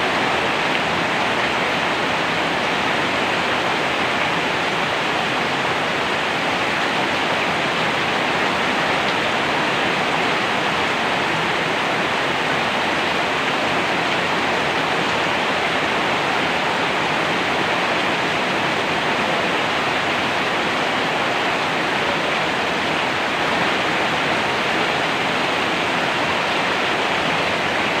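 Steady heavy rain: an even, unbroken hiss with no single drops, thunder or other events standing out.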